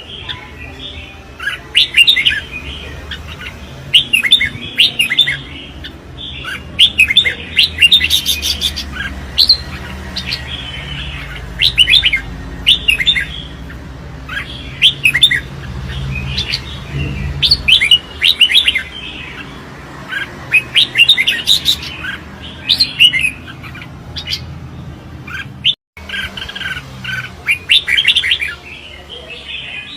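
Red-whiskered bulbuls singing in competition: short, rapid phrases of clear notes, repeated every second or two, over a faint low hum.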